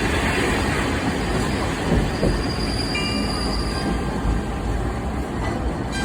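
Sightseeing trolley train running on the rails, with a steady rumble of wheels and carriage. Faint high wheel squeal joins about halfway through.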